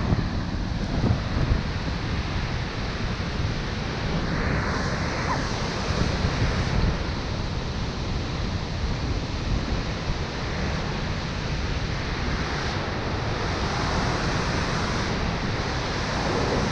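Dettifoss waterfall on the Jökulsá á Fjöllum, heard close up as a steady rush of falling water, with wind buffeting the microphone.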